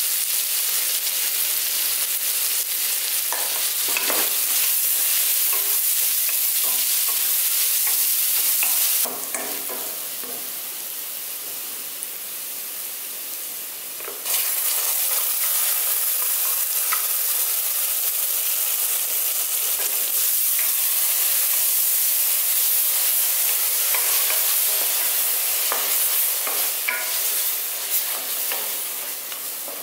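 Onions, and later a green ground coriander masala, frying in oil in a pressure cooker: a steady sizzle, with a spatula stirring and scraping the pan. The sizzle drops quieter for about five seconds partway through, then comes back loud.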